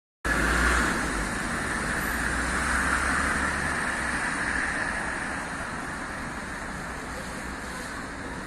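City street traffic noise, cars going by, loudest in the first few seconds and easing off, with a low rumble of wind on the microphone early on.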